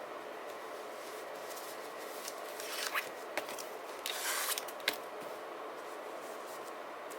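Paper and sticker sheets being handled: a few short scratchy rustles and sharp clicks in the middle, over a steady background hiss.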